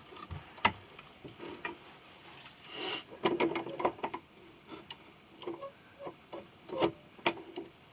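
Irregular light clicks and taps of small hard objects being handled and set down, about a dozen scattered through, with a short scraping rasp about three seconds in.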